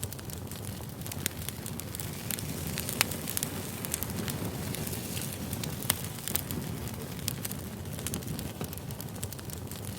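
Firewood burning: a steady low rumble of flames with scattered sharp crackles and pops, two louder pops about 3 and 6 seconds in.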